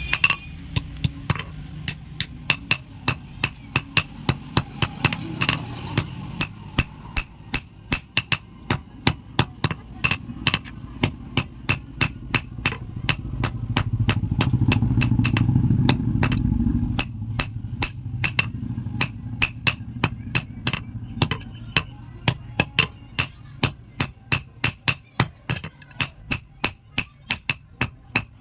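Hand hammer striking hot iron on an anvil in a steady rhythm, about two to three sharp ringing blows a second, as a pair of blacksmith's tongs is forged.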